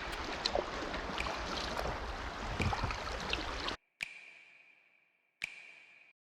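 Water splashing and gurgling, which cuts off suddenly a little before four seconds in. Then come two single pings about a second and a half apart, each a clear ringing tone that dies away.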